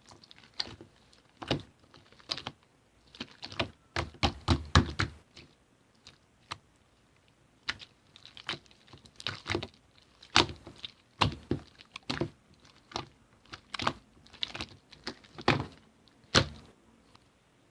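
Irregular sharp clicks and taps, some in quick clusters and some single, with short quiet gaps between them.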